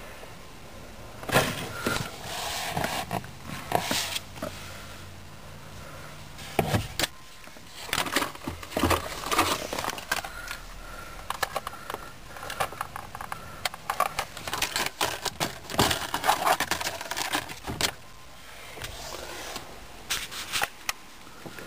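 Irregular clicking, knocking and rattling handling noise in clustered bursts, with a brief low hum under the first burst.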